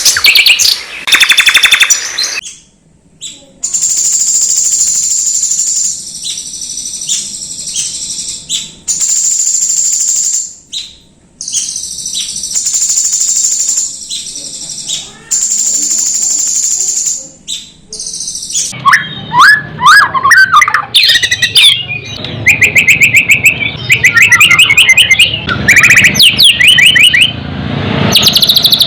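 Songbird song played as masteran tutor audio for a white-rumped shama: long, very high-pitched buzzing trills repeated with short pauses, then, about two-thirds of the way in, a busier run of varied chirps and rapid trills lower in pitch.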